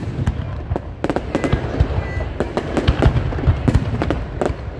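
Aerial fireworks display going off: dense, rapid crackling and popping over a steady low rumble of bursts.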